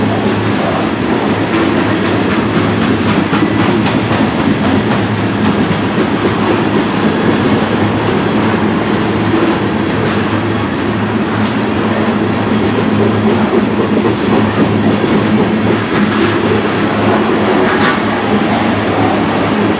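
CSX freight train rolling past, a steady loud rumble of steel wheels on the rails with occasional clicks.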